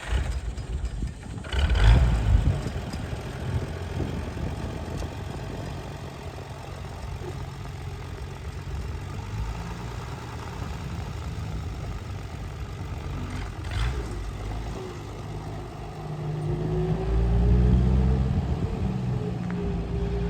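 1951 Wards HR tractor engine running, with a loud burst about two seconds in and a rise in revs near the end.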